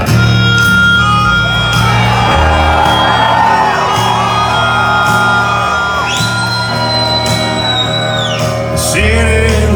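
Live country band playing a song's instrumental intro: electric guitars over a moving bass line, with a high lead note held for about two seconds from about six seconds in.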